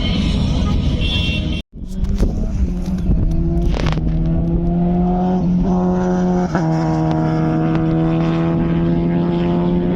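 Superbike engine sound: after a break about two seconds in, an engine note held steady for several seconds, sinking slightly in pitch toward the end.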